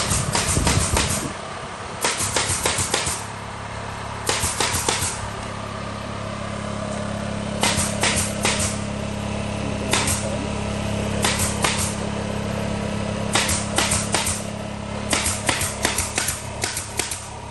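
Makita AC001G cordless compressor's motor running with a steady hum, while an air-driven tool fires in repeated quick bursts of sharp clicks, several strikes per burst, about a second or two apart.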